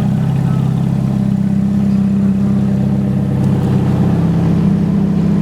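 Supercar engine running at a steady speed, one even low note.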